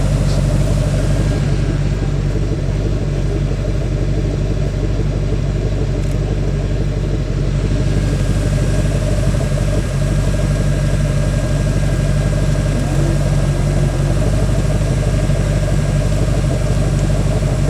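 Off-road competition vehicle's engine running steadily at a constant, low-pitched drone.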